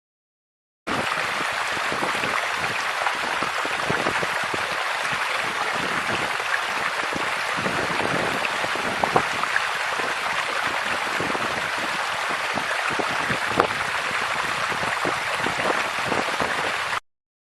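Steady rain, a dense hiss full of small pattering ticks, starting abruptly about a second in and cutting off suddenly near the end.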